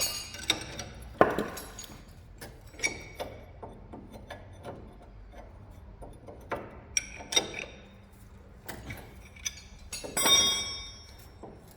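Scattered metallic clinks and knocks of a 23 mm wrench and hand tools working on a steering tie rod end, some with a short ringing tone. There is a louder clatter about a second in and another about ten seconds in.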